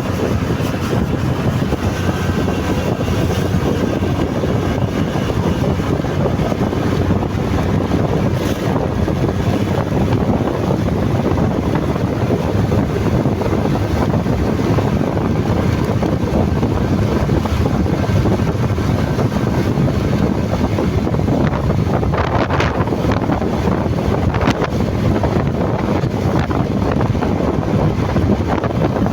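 Steady wind buffeting on the microphone of a moving motorcycle, with engine and road noise underneath.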